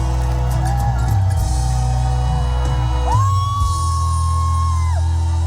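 Live trot band music through the concert PA at the end of a song, with a long held note about three seconds in that stops about two seconds later.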